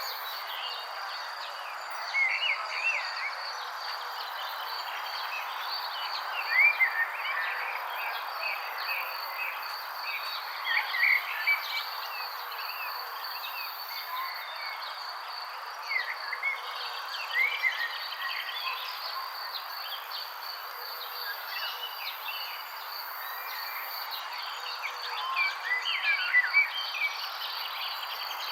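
Songbirds chirping in short clusters of quick, sliding notes every few seconds, over a steady high insect trill like crickets and a constant soft hiss of outdoor ambience.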